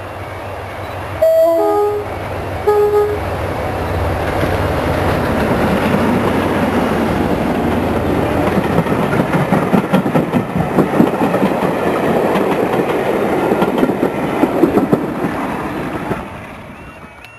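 Diesel-hauled train sounding its horn twice, the first a two-note blast, as it approaches. It then passes close by: the locomotive's engine noise builds, and the wheels of a green slam-door 4-VEP electric unit clatter rapidly over the rail joints before fading near the end.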